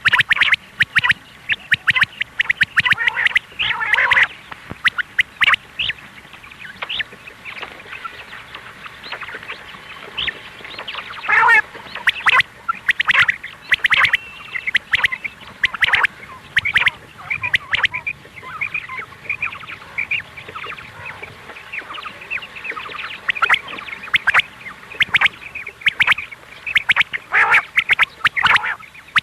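Quail calling: rapid runs of short, harsh chattering calls, repeated over and over with brief gaps, loudest near the start and end.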